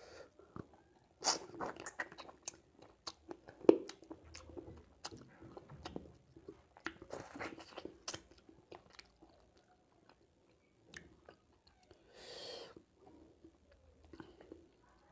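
Close-miked chewing and biting of pork curry and rice: wet smacking mouth sounds with sharp crunchy clicks, thickest in the first half. About twelve seconds in there is a short breathy rush.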